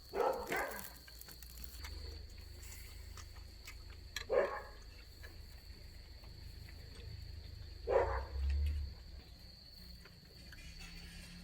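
A dog barking three times, about four seconds apart, over a steady high tone.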